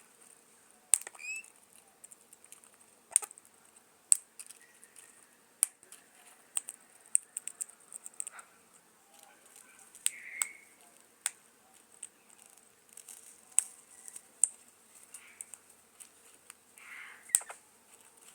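Irregular sharp clicks and taps, with a few short bird calls among them: a quick rising chirp about a second in, and brief squawk-like calls near the middle and near the end. A faint steady high-pitched whine lies underneath.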